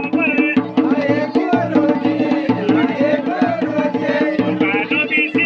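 Garhwali dhol and damau drums played together in a fast, dense rhythm. A wavering pitched melody runs above the drumming.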